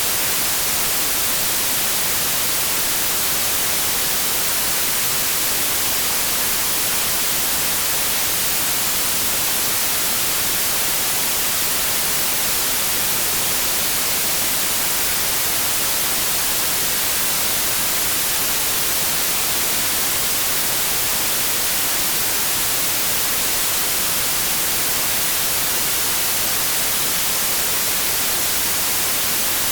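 White noise: a steady, even hiss, with no change in level.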